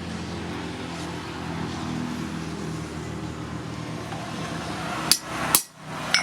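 A motor running steadily, its hum slowly growing louder, then two sharp knocks about five seconds in.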